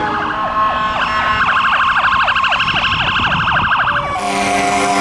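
Emergency vehicle sirens: a wailing siren gliding down in pitch gives way to a very rapid yelping sweep, then an air horn blasts for over a second about four seconds in.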